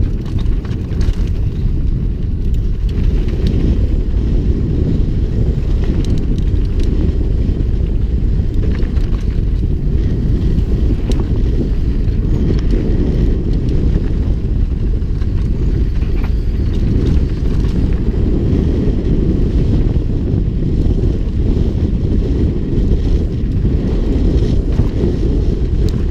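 Heavy wind buffeting the microphone of a mountain biker riding fast downhill: a steady, loud low rumble, with faint scattered clicks and rattles from the bike over rough trail.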